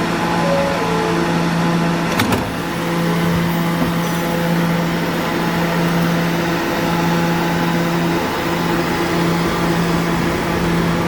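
Steady electrical hum of a Staten Island Railway subway train, with a single click about two seconds in.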